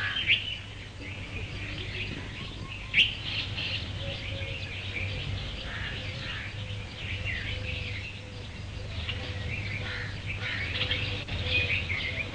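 Small birds chirping, many short, high calls scattered throughout, over a steady low hum.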